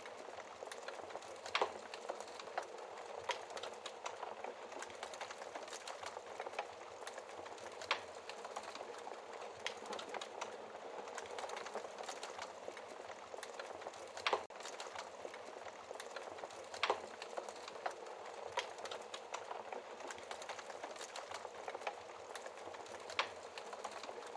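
Wood fire burning in a fireplace: a steady soft hiss of flames with sharp crackles and pops from the logs every second or two.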